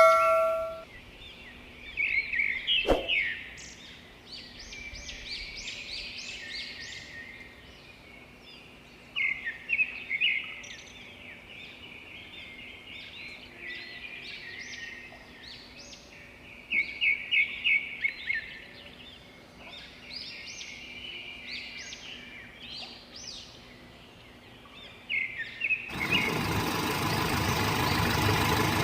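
Birds singing in short chirping phrases, several bursts separated by quieter gaps. Near the end, a loud, steady engine-like drone starts abruptly.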